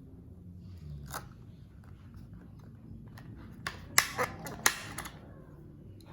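Plastic packaging of a diecast toy car being handled: a single click about a second in, then a burst of sharp clicks and crackles around the middle, the loudest two near four and four and a half seconds.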